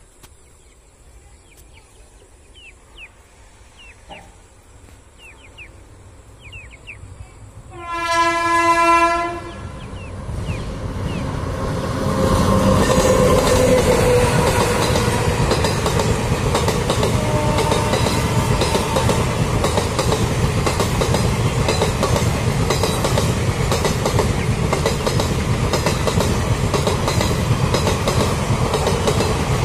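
Faint chirps, then about eight seconds in a train horn sounds one long blast. The train then passes close by: a rake of empty passenger coaches running through, with a steady rolling rumble and the rhythmic clickety-clack of wheels over the rail joints.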